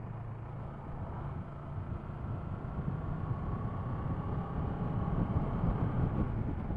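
Kawasaki ER-6F 649 cc parallel-twin motorcycle engine running at road speed, with wind rushing over the helmet-mounted camera's microphone; steady throughout.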